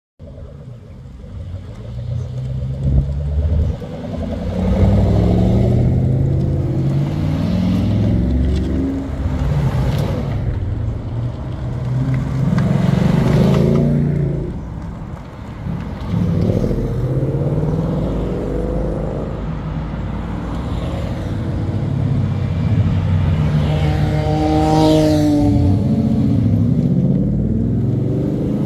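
Ford Mustangs driving past one after another. Their engines rev repeatedly, each engine note rising as a car accelerates.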